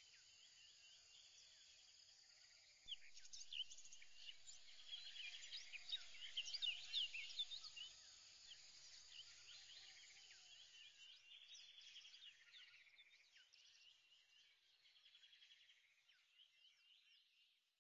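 Faint bird chirping: many short, quick chirps that start about three seconds in, are loudest in the middle and fade out toward the end.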